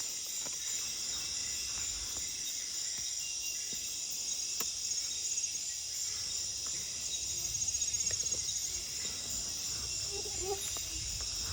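Nocturnal rainforest insects calling together, a steady high-pitched chorus with a fast pulsing trill in it.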